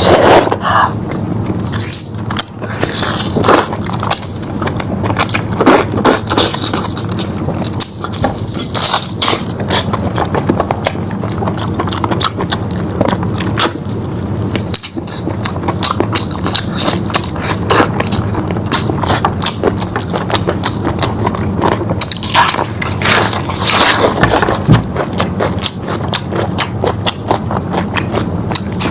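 Close-miked eating of lamb meat: chewing and biting with many short wet clicks and crackles, over a steady low hum.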